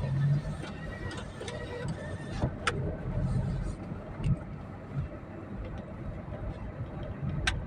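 A car engine running with a steady low rumble, heard from inside the vehicle, with a couple of sharp clicks.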